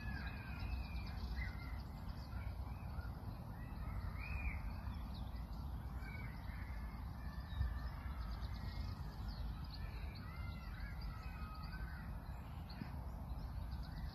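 Outdoor park ambience: birds calling on and off, short chirping calls, over a steady low rumble.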